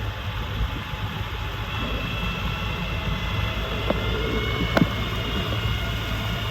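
Diesel engine of a Freightliner M2 dump truck idling steadily, with a couple of sharp clicks a little past halfway.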